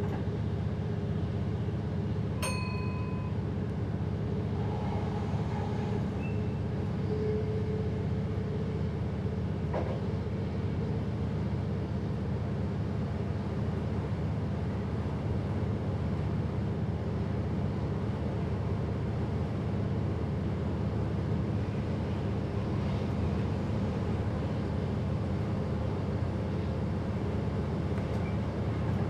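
A passenger train running, heard from the driver's cab: a steady low rumble and hum from the train and the track. About two seconds in there is a short beep.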